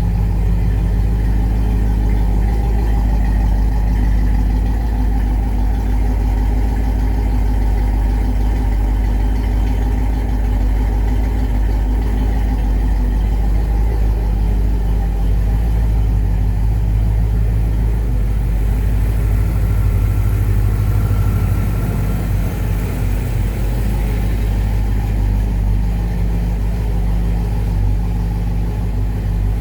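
1988 Ford Thunderbird engine idling steadily after a cold start, its first run after sitting unused for many months. The idle eases slightly quieter about two-thirds of the way through.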